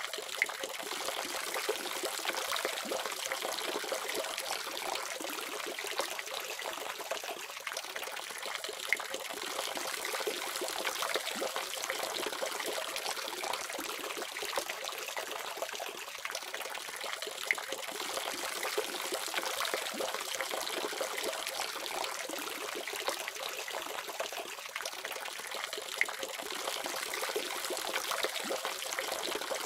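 Water running from a faucet in a steady trickling stream, with an occasional faint droplet tick.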